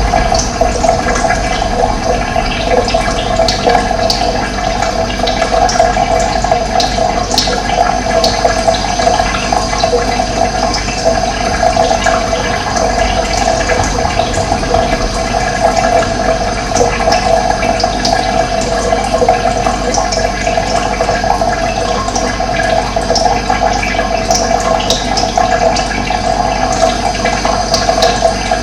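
Steady rush of running water, with short high bird chirps now and then over it.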